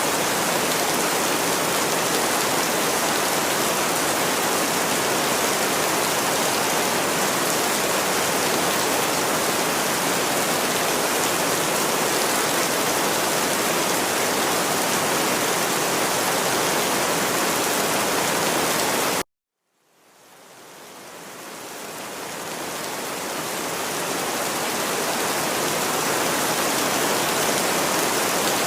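Steady, even rain with no single drops standing out. About two-thirds of the way through it cuts out suddenly for about half a second, then fades back in over several seconds, as at the seam of a looped recording.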